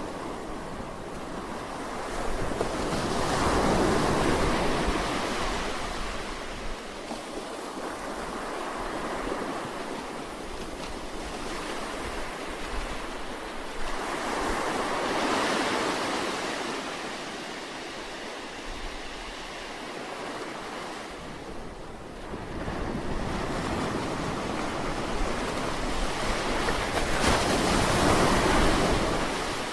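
Sea waves surging and breaking on the shore, a wave swelling in about every twelve seconds, three times, over a steady wash of surf.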